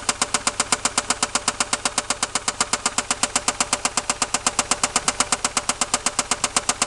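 1990 Toyota Supra's 7M-GE straight-six idling with a loud, sharp, regular tick about eight or nine times a second. The noise seems to come from the top of the engine under the valve cover, and the owners take it for a lifter rather than rod knock.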